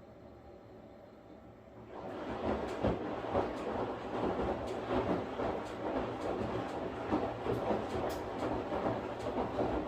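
Washing machine: a quiet low hum, then about two seconds in the drum starts turning again, and a loud steady churning with many irregular knocks and clicks runs on.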